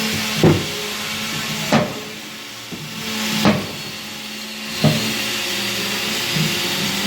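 Four sharp knocks on wood, a second or two apart, over a steady hiss and a low hum.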